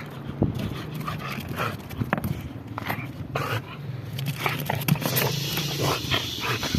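Pit bull making dog sounds, a run of short, irregular noises.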